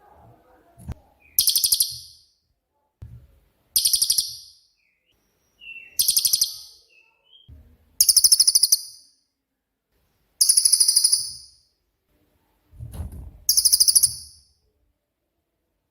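Cililin bird repeating a very high, rapid buzzing trill, the 'tembakan' shot-call used for training songbirds: six bursts of about a second each, roughly two seconds apart.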